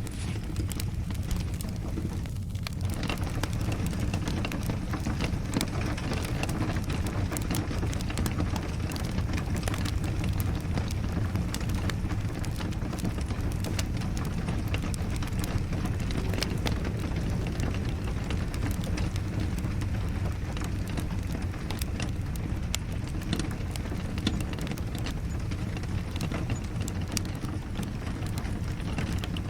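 Rain falling steadily with a wood fire crackling: a constant low rush with frequent sharp pops and snaps throughout.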